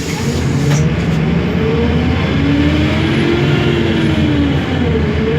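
Diesel engine of a 1999 Mercedes-Benz OMC-1421 city bus running under load. Its note climbs through the middle, drops back about four and a half seconds in, then starts to rise again.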